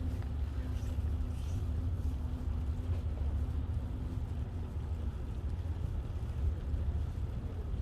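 Steady low rumble of wind buffeting the microphone while riding a bicycle, with a faint steady hum for the first three seconds or so.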